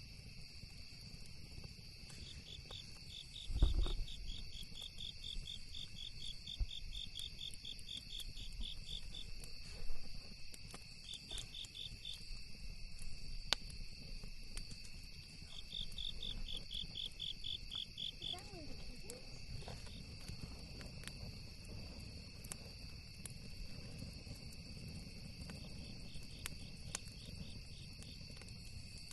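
Crickets and other night insects singing: a steady high drone with stretches of rapid pulsed chirping, over scattered small crackles from a campfire. A single low thump comes about three and a half seconds in.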